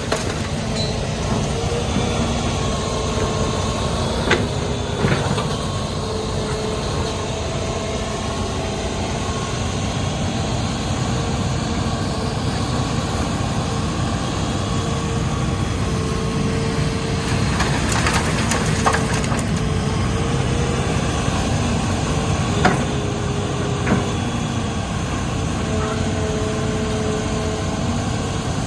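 Hitachi Zaxis 210 excavator's diesel engine and hydraulics running steadily under load, a whine that shifts up and down in pitch as it works. A few sharp knocks come through, twice around four to five seconds in and again later on.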